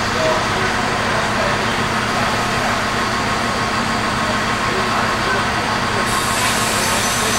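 Passenger coaches of an arriving train rolling slowly past along the platform: a steady rumble of wheels on the rails. A high hiss joins about six seconds in.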